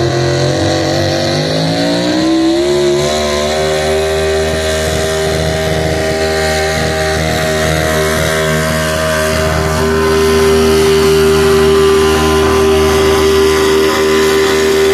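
Loud pulling-truck engine revving up over the first few seconds, then held at high, steady revs under full throttle.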